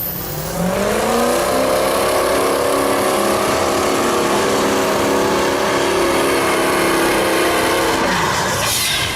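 A mud-bog truck's engine revving up over the first second or so and then held at high revs for several seconds, dropping off near the end with a brief burst of noise.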